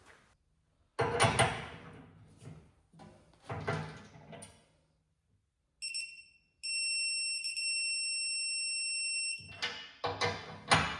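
A digital torque wrench beeping as a bolt reaches its set torque: a short high beep, then one steady beep lasting about three seconds. Around it, louder rattles and clanks of the wrench working the bolts.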